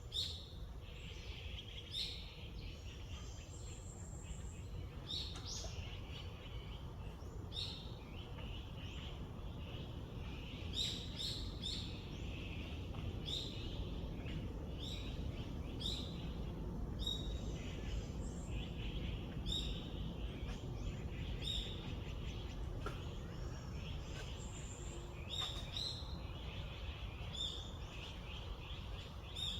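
Several songbirds chirping and calling, with many short high notes that drop in pitch repeated every second or so, over a steady low background rumble.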